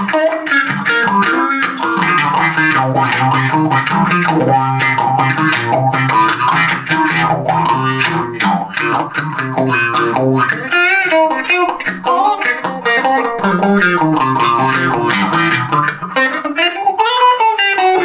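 Instrumental electric guitar playing: a Telecaster through a Roland JC-120 amp, melody notes over a low bass line that drops out about ten seconds in. Near the end a pitch glides up and back down.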